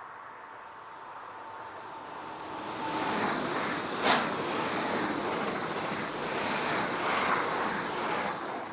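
A train passing by: its rolling noise swells, a sharp knock comes about four seconds in, then a series of wheel beats over the rail joints before it fades near the end.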